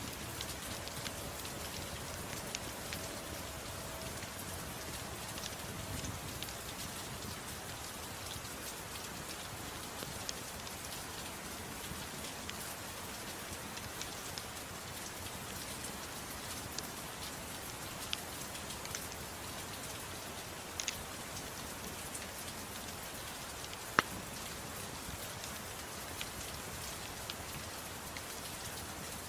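Steady gentle rain hiss with scattered sharp pops of a crackling wood fire, one louder crack about 24 seconds in.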